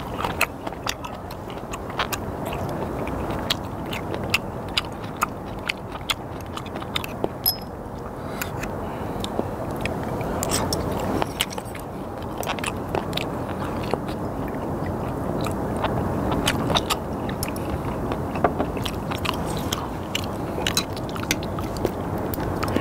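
A person chewing and biting sliced raw skate close to the microphone, with many short sharp clicks and crunches throughout.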